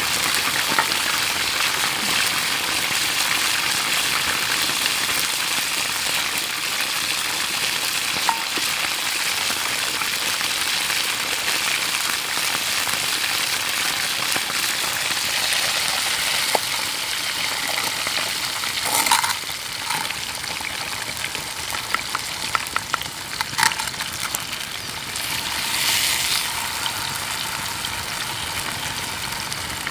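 Food sizzling and frying in a pan, a steady crackling hiss that eases somewhat about two-thirds of the way in. A few sharp clicks follow, like a utensil against the pan.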